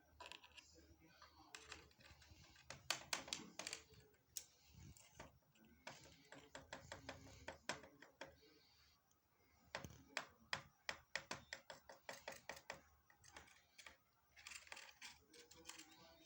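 Faint runs of quick, light clicks and taps: a ringneck parrot pattering and tapping on a hard surface.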